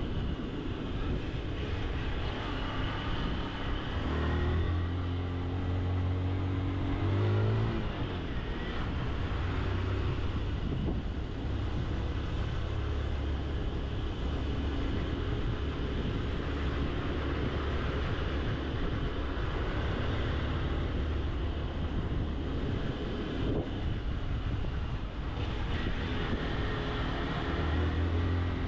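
Honda CG Titan 160 motorcycle's single-cylinder four-stroke engine running under load on a mountain climb. About four seconds in its revs rise for a few seconds and then fall back, and they rise again near the end.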